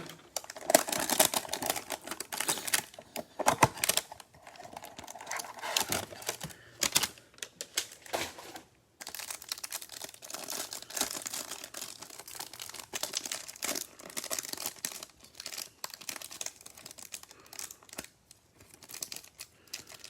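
Cellophane wrapping on trading-card packs crinkling and tearing as it is opened by hand, in irregular crackles throughout.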